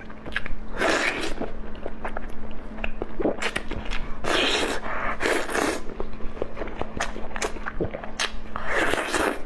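A person eating close to the microphone: a run of wet chewing clicks, with four short slurps, about a second in, twice in the middle and near the end.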